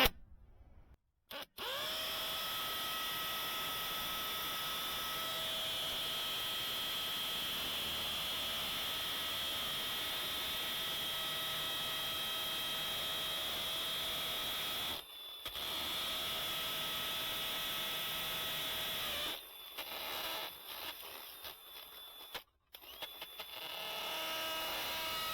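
Power drill running at a steady speed with a constant whine as a long bit bores through the house's exterior wall. It stops briefly about two-thirds of the way through, runs again, then starts and stops in short spurts before running steadily again near the end.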